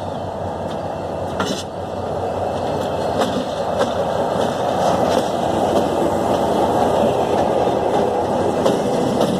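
Passenger train hauled by an EMD GT22CW diesel locomotive rolling past, a steady rumble of wheels on rails that grows louder, with a few sharp clicks as wheels cross rail joints.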